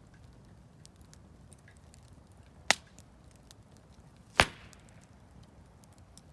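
Campfire wood crackling with faint scattered ticks and two loud, sharp pops, the second about a second and a half after the first.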